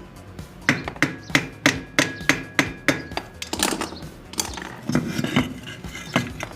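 A run of sharp knocks, about three a second, one with a brief metallic ring, then scraping and rubbing and a last knock near the end: tools and hands working on an old ceiling fan's body.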